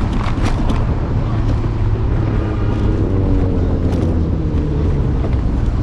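City street traffic heard while riding an electric scooter, under a steady low wind rumble on the microphone, with a few sharp clicks and rattles near the start.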